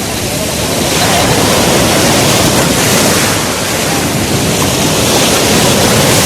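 Sea waves washing on the shore, a loud steady rush of surf that swells and eases, with wind buffeting the microphone.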